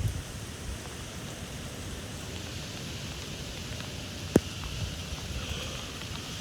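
Steady rain falling in a gusty wind squall, an even hiss with low rumbling underneath. A single sharp tap about four seconds in.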